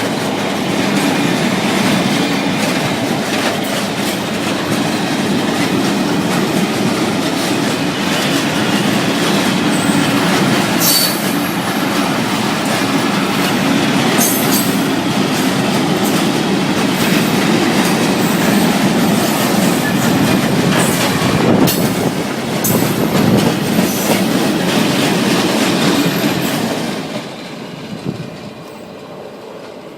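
Freight train wagons rolling past with a steady rumble and clatter of wheels over the rail joints and brief high wheel squeals now and then. The noise falls away sharply about 27 seconds in as the end of the train goes by.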